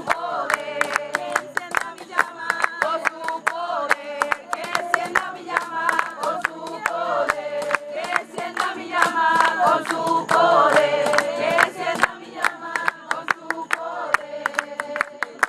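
A group of people singing together in chorus, clapping their hands along in a steady rhythm.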